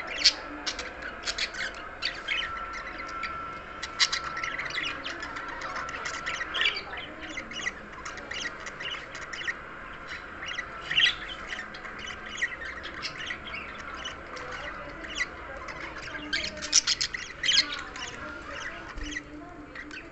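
Budgerigar chattering and warbling: a quick, unbroken string of short chirps and squawks, the chatter of a contented bird, growing busier later on.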